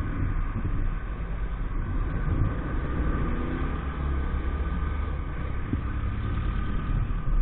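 EAYS Pro 50cc motorcycle's small engine running steadily while riding, with low rumble on the microphone.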